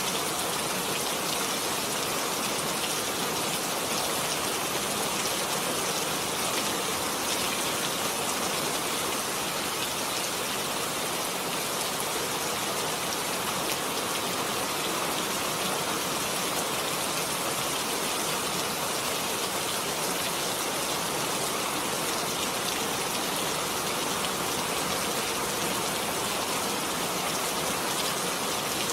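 Heavy rain falling steadily, an even hiss of countless drops on surfaces that never changes in level.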